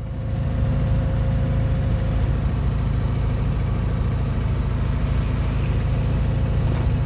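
A vehicle driving at steady road speed while towing a round baler. The engine runs with a constant low hum, and road noise sits beneath it.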